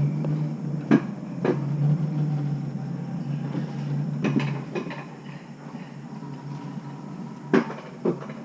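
A steady low hum with sharp knocks or clacks at irregular intervals, about five in all.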